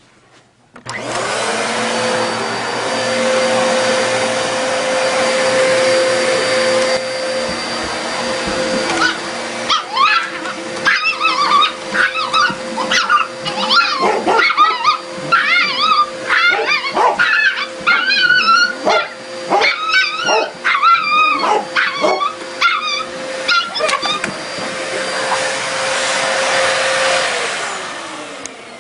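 Vacuum cleaner switched on, its motor spinning up to a steady whine and running, then winding down near the end. Over the middle stretch a dog barks repeatedly at the vacuum.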